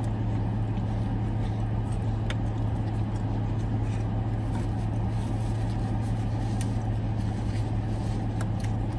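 Steady low hum of a parked Dodge Challenger idling, heard from inside the cabin, with a few faint clicks of chewing over it.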